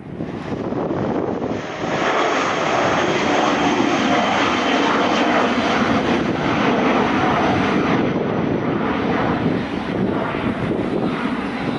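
Airliner engines at takeoff power, a loud steady rush of engine noise that swells about two seconds in and holds.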